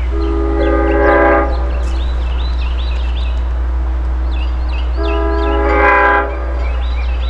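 Multi-tone air horn of an approaching LIRR DM30AC dual-mode locomotive sounding two long blasts about four seconds apart, the start of a grade-crossing signal. A steady low rumble runs underneath.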